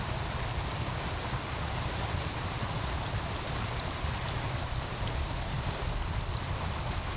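Wood fire crackling with frequent short, sharp pops over the steady rush of a meltwater stream, with a continuous low rumble underneath.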